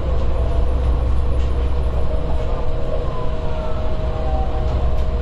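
Palm Jumeirah monorail running on its track, heard from on board: a steady low rumble with a steady hum over it and faint gliding whines.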